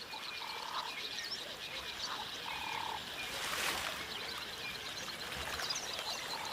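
Riverbank wildlife ambience: a frog gives short, even-pitched calls three times, over many faint high chirps from birds or insects.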